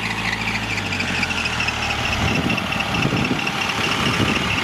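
Tractor engine running, its steady note turning rougher and busier about two seconds in.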